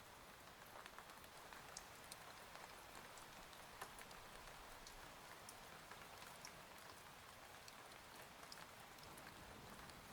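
Faint steady rain, with scattered sharp drop ticks on a hard surface.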